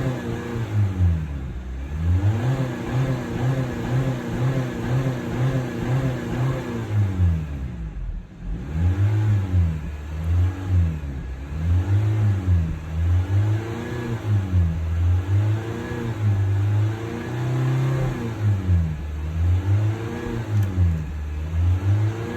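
2020 Honda Civic engine being revved over and over, the pitch rising and falling with each rev. The first few revs are longer sweeps; after a short dip about a third of the way in, they come as quicker blips about once a second.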